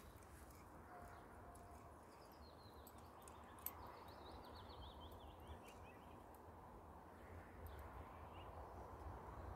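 Faint outdoor ambience with a low steady rumble. A bird sings one short trill a couple of seconds in, and a single sharp click comes partway through it.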